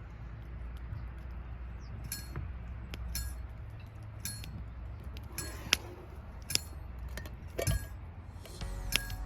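Light metallic clinks, about ten spaced irregularly, each ringing briefly: a utensil knocking against metal camp cookware, over a steady low rumble.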